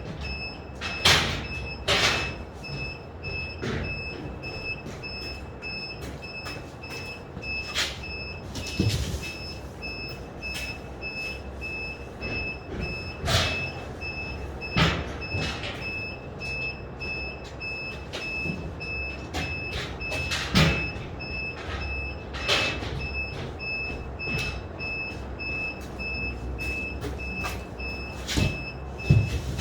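Construction-site ambience: a vehicle's reversing alarm beeps on and off at a steady rate over a low machine rumble, with irregular knocks and bangs of materials being handled.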